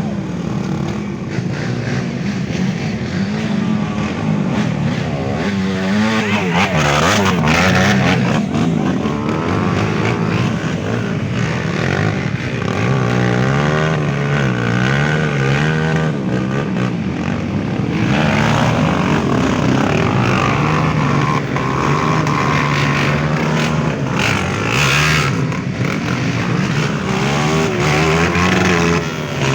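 Off-road trail motorcycles revving hard, their engine pitch repeatedly rising and falling.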